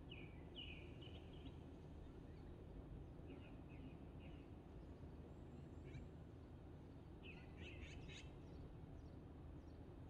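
Faint songbird calls in a quiet wood: short high chirps in small groups near the start, in the middle and again about three-quarters through, over a low steady background rumble.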